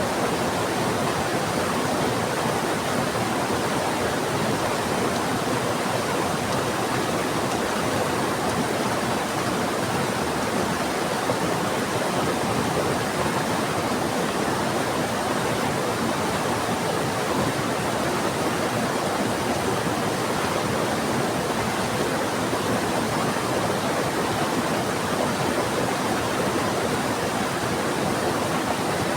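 Heavy rain together with a fast-flowing river: a steady, even rush of water noise without any distinct drops or breaks.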